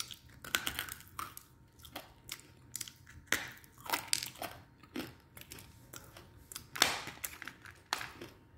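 A person chewing and crunching chunks of edible clay with the mouth closed: irregular sharp crunches, about one or two a second, the loudest about seven seconds in.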